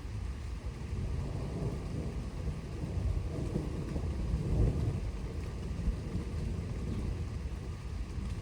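Rolling thunder rumbling low and deep, swelling to its loudest about halfway through, over steady rain.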